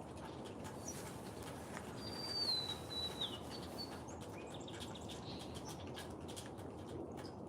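A wild bird's clear whistled call about two seconds in, dropping in pitch in two steps, followed by a few faint short chirps, over a steady low outdoor background noise.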